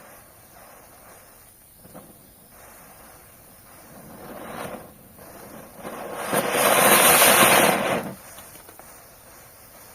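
Diwali ground spinner firework (chakkar) hissing as it burns. A shorter hiss swells about four seconds in, then a loud hiss lasts about two seconds and cuts off suddenly.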